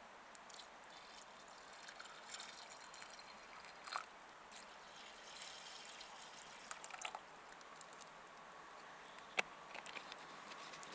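Faint food-preparation sounds: a light trickle of liquid with scattered small clicks and taps, the sharpest about nine seconds in.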